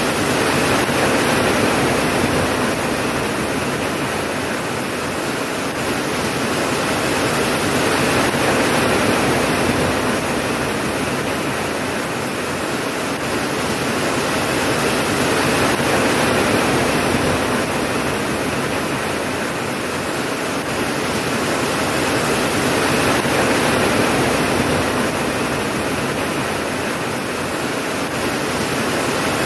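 Steady heavy rain, an even hiss that swells and eases gently about every eight seconds.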